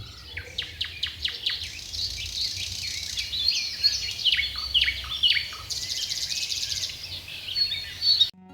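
Birds chirping and singing, many quick overlapping calls and short downward-sweeping notes over a faint low rumble, cutting off suddenly near the end.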